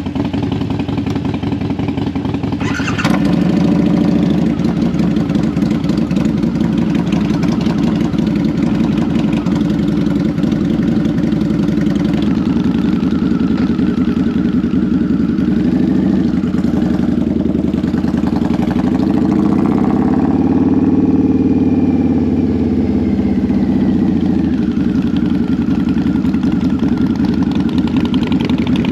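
2002 Harley-Davidson V-Rod's 1131 cc water-cooled V-twin running, louder from about three seconds in. The bike then rides off at low speed, its engine note rising and falling as it accelerates, most clearly around twenty seconds in.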